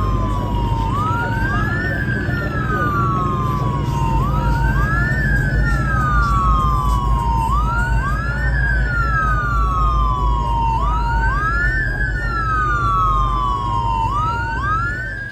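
Emergency vehicle siren wailing. Each cycle rises quickly, then falls slowly, repeating about every three and a half seconds, with a second siren wail following half a beat behind. A steady low rumble runs underneath, and the sound cuts off abruptly at the end.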